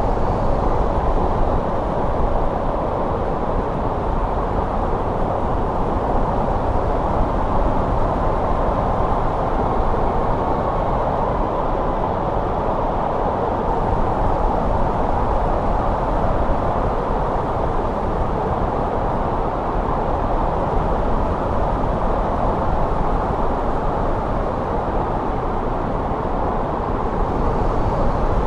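Steady wind noise of a snowstorm: an even, unbroken rush, mostly low to middle in pitch, with no gusts standing out.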